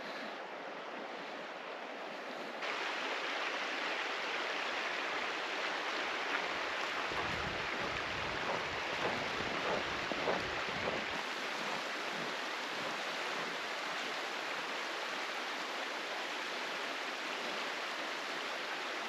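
Steady rush of a mountain creek. It jumps louder about two and a half seconds in, and there is low wind rumble on the microphone for a few seconds in the middle.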